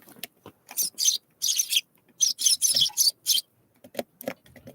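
Small birds at a feeder making a quick run of short, scratchy, hissing sounds, mostly high-pitched, followed by a few soft knocks near the end.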